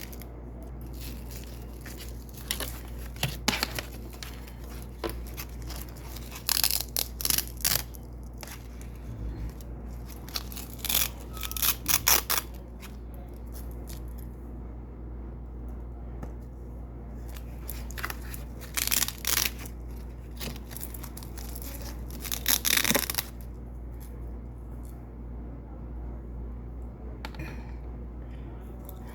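Double-sided hook-and-loop (Velcro) strip being peeled off white hook strips, in short ripping bursts that come in clusters every few seconds.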